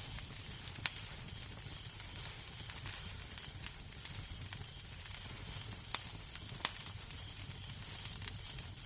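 Wood fire crackling in a fireplace: a steady hiss over a low rumble, broken by a few sharp pops.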